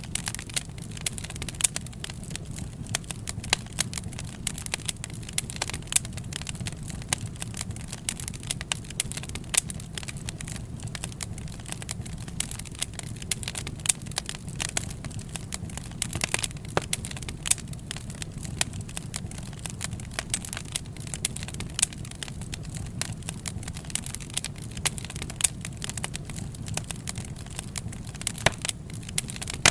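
Wood fire crackling: irregular sharp pops and snaps several times a second over a steady low rumble.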